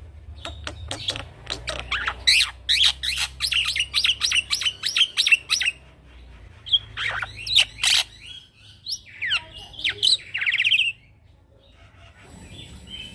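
Young male black-winged myna (jalak putih) singing: a fast run of sharp chattering notes for about six seconds, then a few separate whistles and a short trill. It falls quiet near the end.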